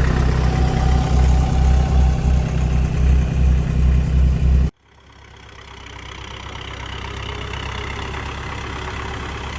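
Tractor engine running steadily with a strong low hum; a little under halfway through it cuts off abruptly, and a quieter engine sound fades back in.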